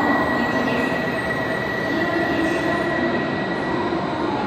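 E2 series Shinkansen train pulling slowly into the platform, a steady rumble of wheels and equipment with a thin high tone that fades out about three seconds in.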